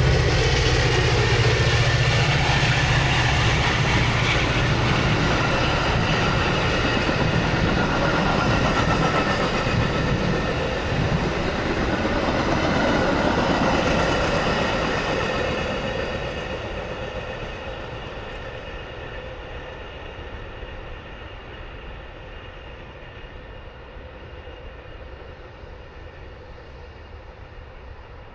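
Metra commuter train passing at speed on the track, loud for the first half, then fading away steadily as it recedes.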